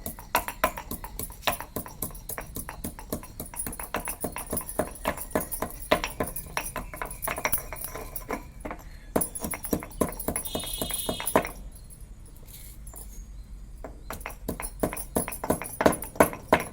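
Whole coriander seeds being pounded with a pestle: quick, irregular knocks, several a second. They ease off about two-thirds of the way through and come back harder near the end.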